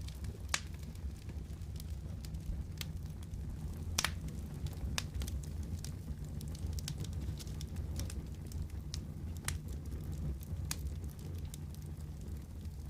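Wood fire crackling in a fireplace: a steady low rumble of the flames with scattered sharp pops and snaps, the strongest about half a second and about four seconds in.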